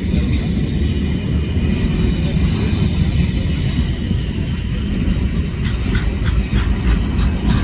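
Mauritanian iron ore train rumbling heavily along the track. Near the end a rhythmic clacking sets in, about three a second.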